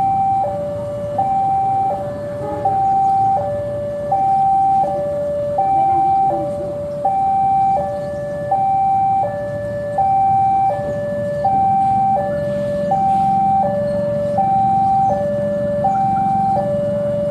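Electronic two-tone warning alarm alternating steadily between a high and a low tone, each held for about three quarters of a second, over a low steady hum.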